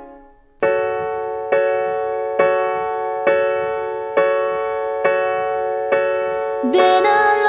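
Keyboard chord struck over and over at an even pace of about one strike a second, each ringing and fading before the next; near the end more instruments join and the music fills out.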